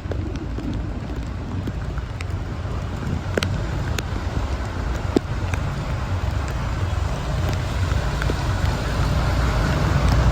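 Heavy rain falling steadily, a continuous hiss over a low rumble, with scattered sharp ticks of drops striking nearby surfaces; it grows a little louder toward the end.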